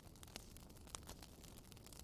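Wood fire crackling softly, with irregular small pops and two sharper snaps, one about half a second in and one about a second in, over a faint low rumble.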